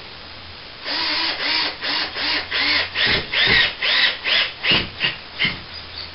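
Cordless drill-driver driving a screw up through plasterboard into the ceiling, run in short bursts about two or three a second, with the motor's pitch rising and falling in each burst. The bursts stop near the end.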